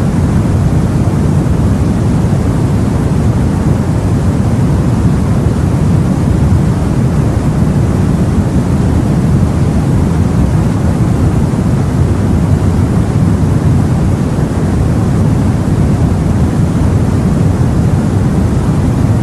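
Steady, low rumbling sea and wind noise, as heard aboard a boat, with no breaks or separate events.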